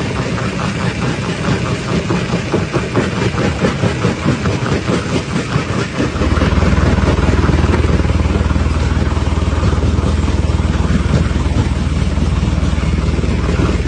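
Rock crusher at work: rock crunching and clattering in rapid knocks, then about six seconds in a loud steady low drone of heavy machinery comes in and runs on under it.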